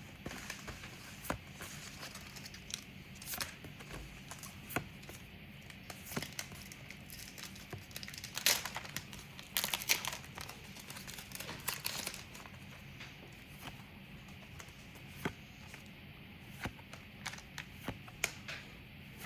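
Trading-card pack wrappers crinkling and being torn open, with cards handled in between. The crinkling is densest about halfway through.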